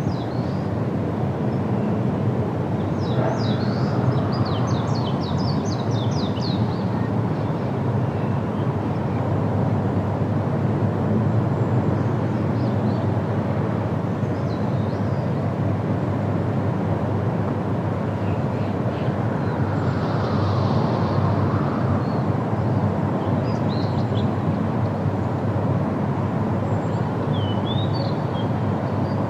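Outdoor field recording: a steady low rumble throughout, with small birds chirping over it. There is a quick run of chirps a few seconds in and a few more near the end.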